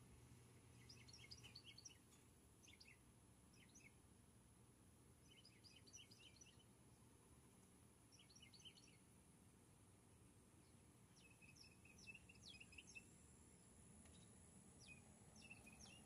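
Faint chirping of small birds: groups of short, high chirps that come every few seconds over a quiet outdoor background.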